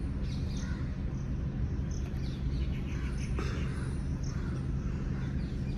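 Small birds chirping faintly in short high notes, repeating every half second or so, over a steady low rumble, with a few brief rustles.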